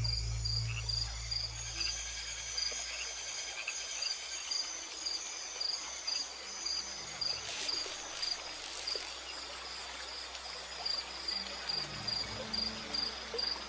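Rainforest insect chirping in a steady, even rhythm of short, high chirps, about two or three a second, over a soft bed of forest ambience.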